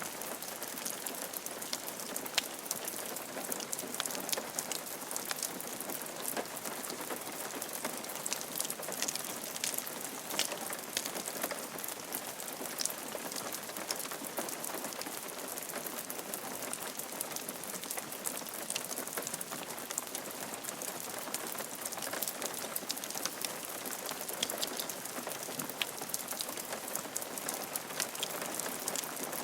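Steady rain falling on a roof: an even hiss of rain with many fine, close drop ticks, no let-up.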